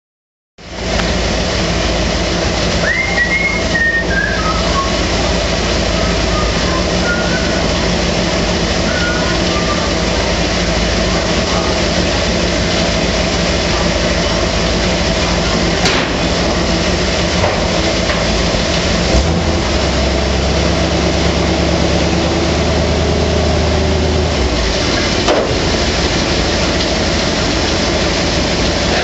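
An engine running steadily, with a few short high chirps a few seconds in.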